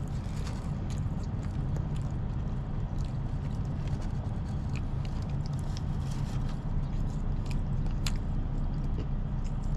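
Steady low rumble of an idling engine, with scattered small clicks and scrapes of someone chewing and eating.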